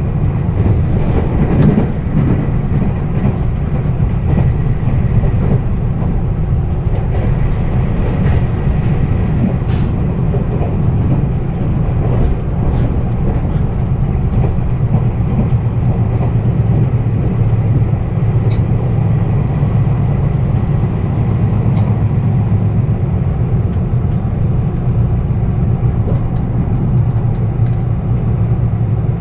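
Meitetsu 1200 series electric train running at speed, heard from inside the passenger cabin: a steady low rumble of wheels on rail, with a few faint ticks.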